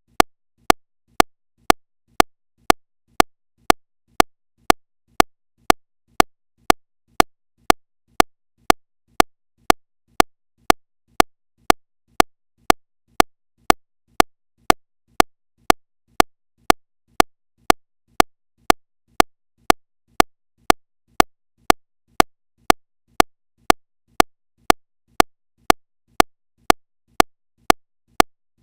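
Sharp, evenly spaced mechanical ticks, about two and a half a second, as steady as a metronome.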